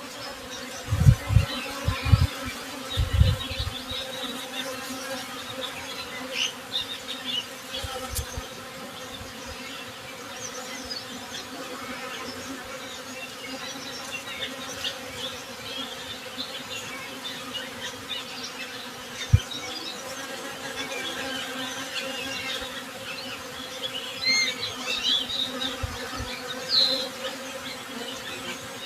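Honey bees buzzing in a steady hum, with birds chirping faintly over it, more often near the end. A few short low thumps break in near the start and a couple of times later.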